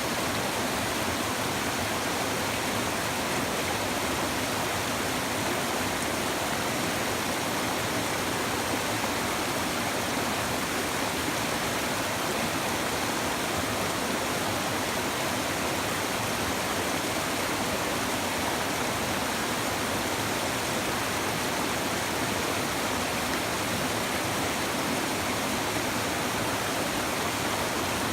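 A shallow river babbling over stones in a steady, unbroken rush of water.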